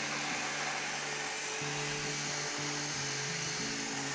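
Blender motor running steadily at one speed, blending softened cream cheese and heavy cream into a smooth mixture. Background music plays over it.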